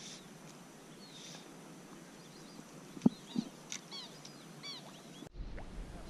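Faint bird chirps, a few short calls, over quiet open-air ambience. A sharp click about three seconds in is the loudest sound, with a softer one just after it. Near the end the background shifts abruptly to a low rumble.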